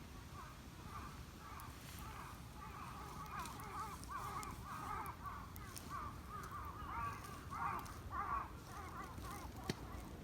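A bird calling in a rapid chattering run of short squeaky rising and falling notes that grow louder after the first few seconds, with a few sharp ticks scattered through.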